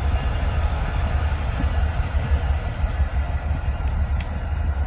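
Norfolk Southern diesel-hauled train passing close by: a steady low rumble of engines and rolling wheels, with a few sharp clicks in the second half.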